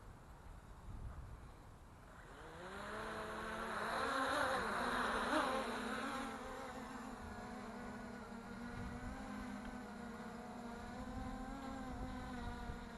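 Quadcopter drone's motors and propellers buzzing, on a 3D-printed DJI Mavic clone. About two and a half seconds in the buzz rises in pitch and gets louder, peaks a couple of seconds later, then settles into a steady buzz whose pitch wavers slightly as the craft holds against the wind.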